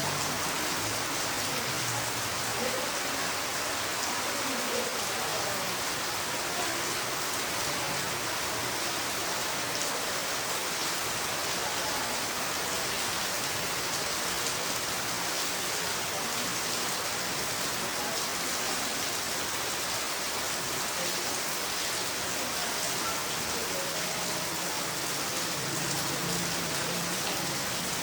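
Heavy rain pouring down steadily, an even hiss of dense rainfall.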